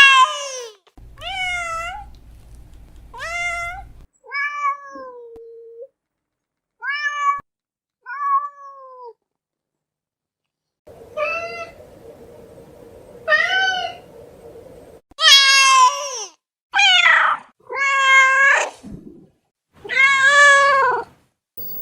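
Domestic cat meowing over and over, about a dozen separate meows, each bending in pitch. They are quieter in the first half and louder and longer from about fifteen seconds in.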